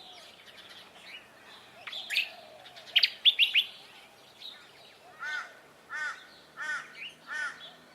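Wild birds calling, pretty loud: a few sharp chirps about two to three and a half seconds in, then a run of four evenly spaced arched calls, about one every 0.7 seconds.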